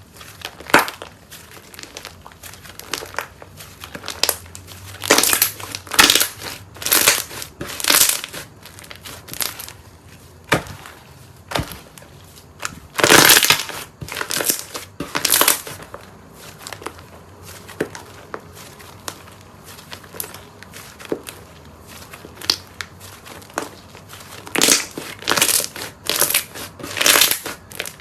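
Crunchy slime being pressed and squeezed, giving a string of crisp crunches at irregular intervals, about one a second, the loudest in a cluster around the middle and again near the end.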